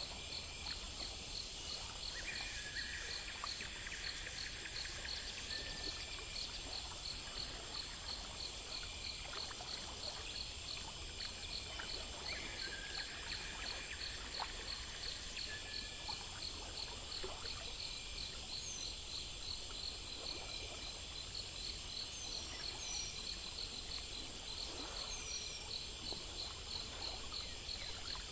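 Chorus of crickets and other insects calling steadily: rapid, evenly spaced high chirps over a continuous high-pitched drone.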